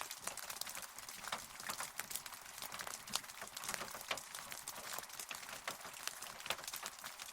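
Rain falling steadily: a soft hiss with many sharp, irregular ticks of single drops.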